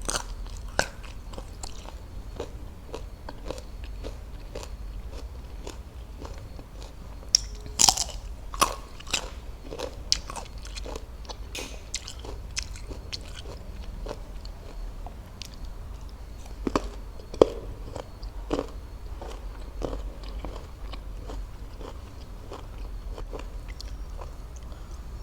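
Close-miked crunchy bites and chewing of raw fruit: many short crisp crunches, with a few louder bites about a third of the way in and again about two-thirds through.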